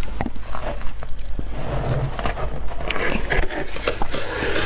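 Soft, powdery freezer frost crunching, with scattered sharp clicks and a denser crackling stretch in the second half.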